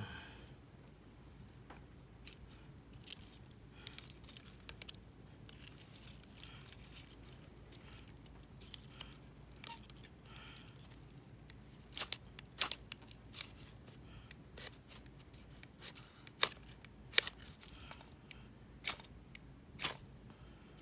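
Knife blade shaving thin curls off a wooden stick to make a feather stick: a run of short, sharp scraping strokes, sparse at first and coming faster and louder in the second half.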